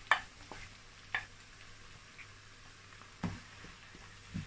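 Blended pepper purée sizzling faintly as it hits hot vegetable oil and fried onions in a non-stick frying pan. A wooden spatula scrapes the bowl and stirs, with about four short knocks and scrapes.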